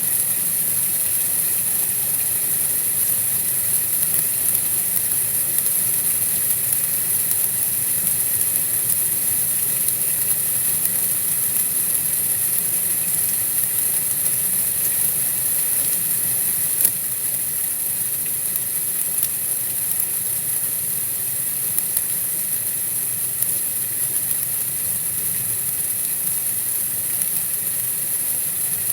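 Steady white-noise hiss, brightest in the high register, with a faint low hum beneath it. A single sharp click about seventeen seconds in, after which the hiss is a little quieter.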